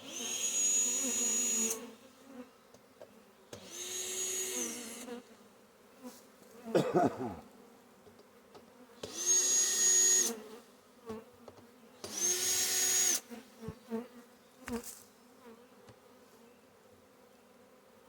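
Honeybee swarm buzzing steadily, broken four times by loud hissing bursts about a second or more long, each with a steady whistle in it. There are a few clicks midway.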